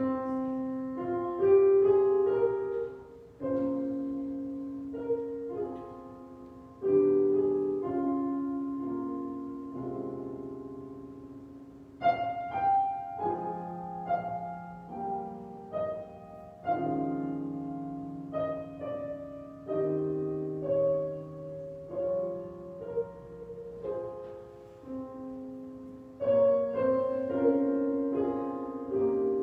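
Solo piano playing a slow, quiet prelude: chords and a melody of struck notes that fade away.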